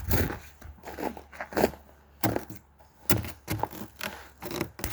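Sheet ice on a frozen creek being struck and broken: a string of irregular sharp cracking knocks and crunches.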